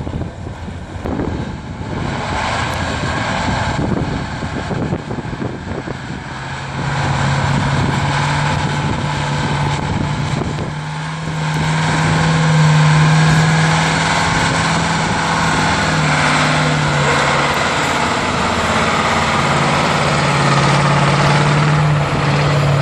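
Ural 6x6 truck's engine running hard at high revs, holding a steady pitch. It grows louder about 7 seconds in and again about 12 seconds in.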